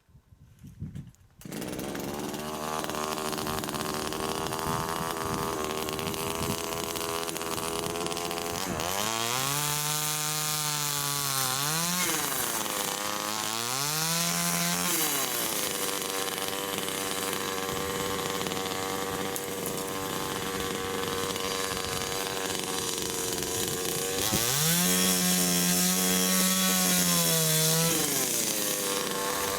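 Chainsaw engine running from about a second and a half in, revved up to high speed three times and dropping back each time, as when cutting through overgrown tree limbs and trunks.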